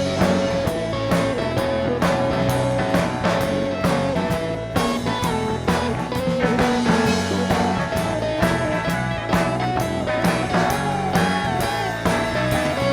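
Live rock band in an instrumental break: a lead guitar solo, its melody bending and sliding over bass and a steady drum kit beat.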